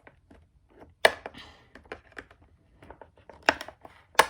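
Cardboard and plastic toy packaging being opened by hand: a string of sharp clicks, cracks and snaps, the loudest about a second in and again near the end.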